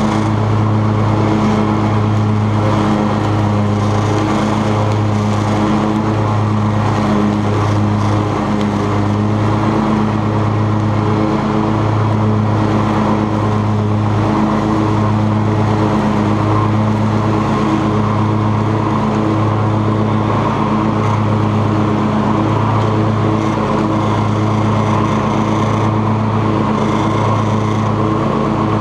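Cub Cadet XT2 riding lawn tractor running steadily while mowing grass, with the engine humming at an even speed.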